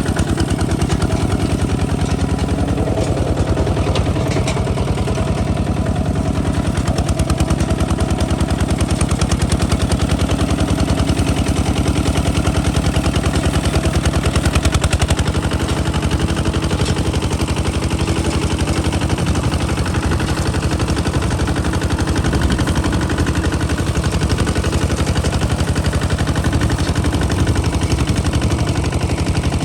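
Kubota ZT 155 DI single-cylinder diesel engine running steadily, its exhaust firing in a fast, even chugging beat.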